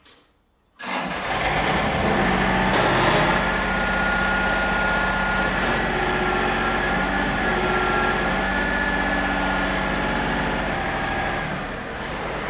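John Deere 955 compact tractor's three-cylinder diesel engine running steadily, setting in about a second in after a brief quiet.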